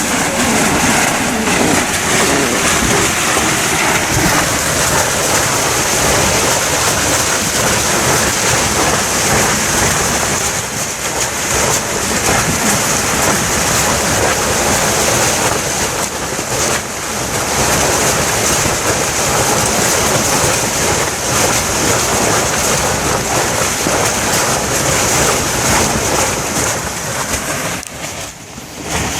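Torrential rain pouring down in strong wind: a loud, steady hiss of rain with wind buffeting low underneath, easing briefly a few times.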